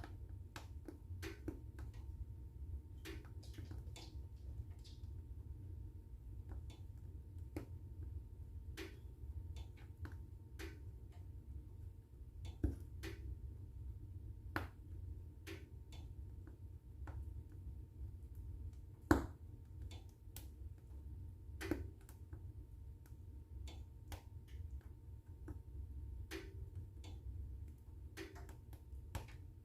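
Wood fire crackling in a fireplace: irregular snaps and pops over a low, steady rumble of burning, with a few louder pops around the middle.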